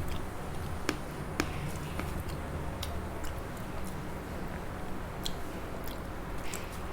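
A person chewing a rice meal, with a few scattered sharp clicks and smacks over a low steady hum.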